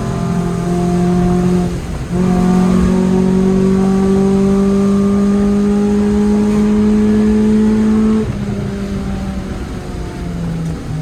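Car engine pulling under load, a steady drone that dips briefly about two seconds in as at a gear change, then climbs slowly in pitch before easing off about eight seconds in.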